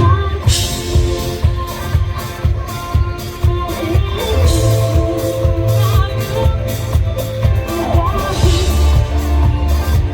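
Band music with guitar and drum kit playing a steady beat, an instrumental stretch with no singing heard.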